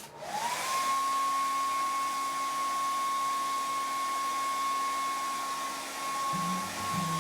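A small electric motor appliance switched on: its whine rises in pitch over about a second, then it runs steadily with a whirring hiss.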